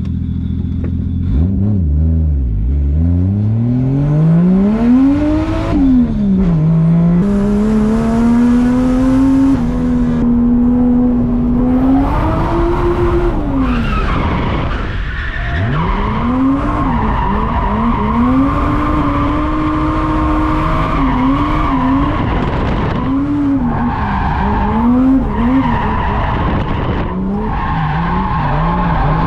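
Drift car's engine revving hard, its pitch climbing and then rising and dipping again and again with the throttle. From about halfway through, the tyres squeal in a long slide over the engine.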